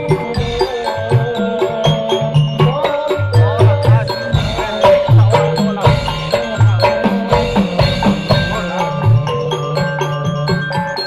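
Instrumental hadrah music: a busy drum rhythm on kendang and hand drums, with a melody line played over it and no singing.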